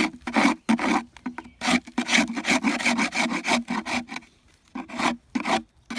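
Scraper scraping wax and propolis off a wooden beehive box: a series of short rasping strokes, quickening into a fast run of strokes in the middle, then a few slower ones near the end.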